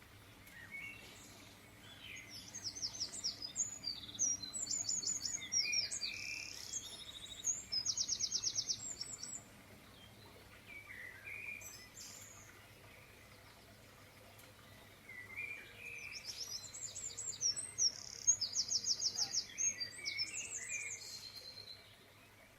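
A songbird singing two long, varied song phrases of rapid high trills and chirps, each lasting several seconds, with a pause between them.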